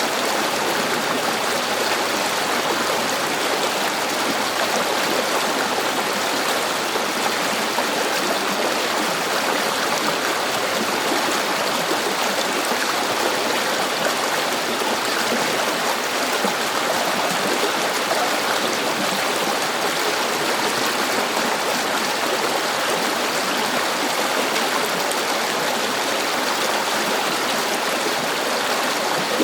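A river flowing steadily, a constant rush of running water with no breaks or distinct splashes.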